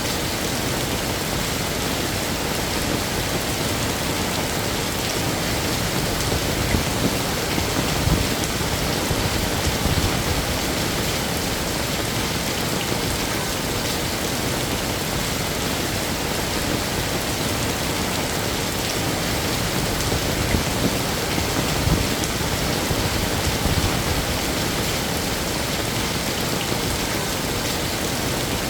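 Heavy rain falling steadily, a dense even hiss of drops on surfaces. The low end swells briefly twice, about a third of the way in and again near three quarters.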